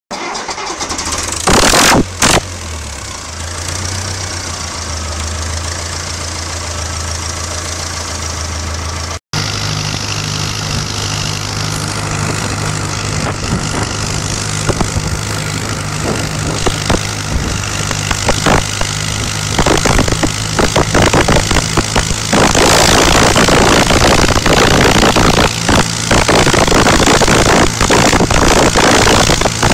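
Someca 750 DT tractor's diesel engine idling with a steady low throb and a brief loud burst about two seconds in. The sound cuts out for a moment about nine seconds in, then the engine runs on. From about twenty-two seconds it runs louder and rougher, with rapid knocking.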